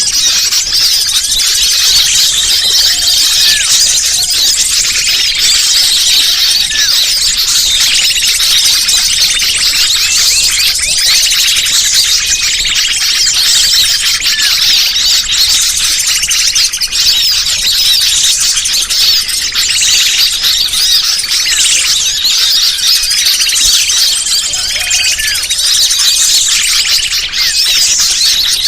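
Dense, loud chorus of many small birds chirping and twittering rapidly and without pause: a 'pikat' lure recording, played to draw wild birds in.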